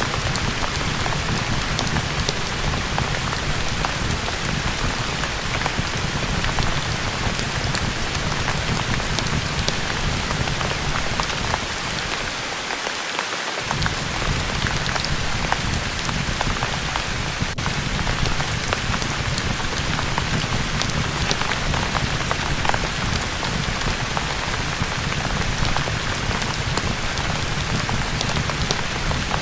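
Steady rain falling on a surface, with a low rumble underneath that drops out briefly about halfway through.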